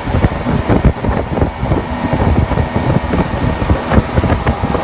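Wind buffeting the microphone on a moving motorboat, with the boat's engine running underneath as a steady drone.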